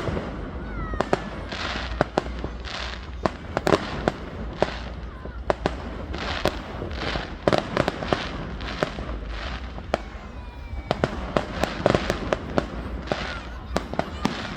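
Fireworks going off: an irregular run of sharp bangs and cracks, several a second, with short crackling bursts in between.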